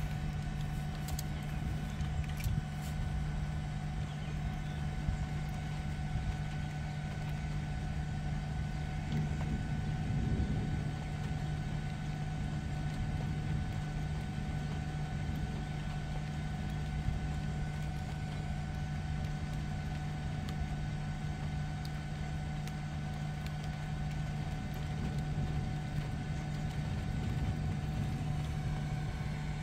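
Steady hum of an idling vehicle heard from inside the cabin, with a low rumble underneath and a few faint clicks in the first few seconds.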